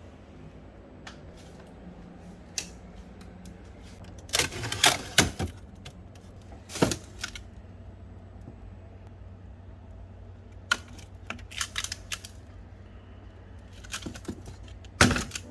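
Hard containers and bottles being handled while a refrigerator is organized: scattered clicks and several short bursts of clatter as items are set down and moved, over a steady low hum.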